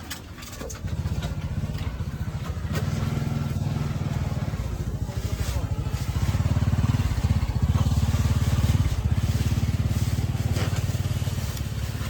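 A small engine running close by with a steady, fast-pulsing hum. It comes in about a second in and grows louder around the middle.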